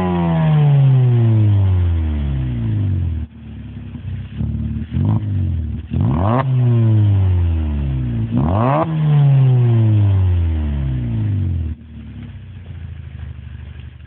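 Volkswagen Golf Mk5's 2.0 FSI four-cylinder petrol engine being revved. The revs fall away from a blip, then come two short blips and two sharp revs, each sinking slowly back down. It settles to a steady idle near the end.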